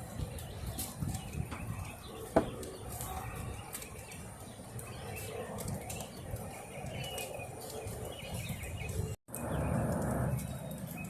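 Outdoor ambience in rain: scattered raindrop taps with faint bird chirps, and one sharp tap about two seconds in. Near the end the sound cuts out for a moment, then a louder rush of noise lasts about a second.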